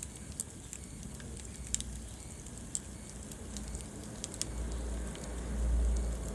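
Wood fire in a fireplace crackling, with scattered sharp pops over a low steady rumble that grows louder near the end.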